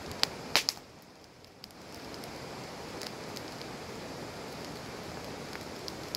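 Wood campfire crackling: a few sharp pops in the first second, then a steady hiss with an occasional single snap.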